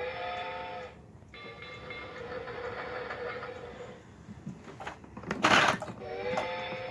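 VTech Alphabet Train toy playing its electronic train sound effect through its small speaker. A horn-like chord comes first, then a steady train-running sound, a loud short burst of noise about five and a half seconds in, and tuneful notes starting again near the end.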